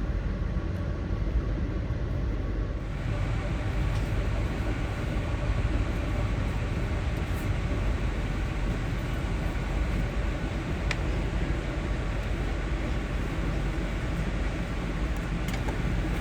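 Amtrak passenger train running along the line, heard from inside the car as a steady rumble and rolling noise. The hiss becomes brighter about three seconds in, with a few faint ticks later.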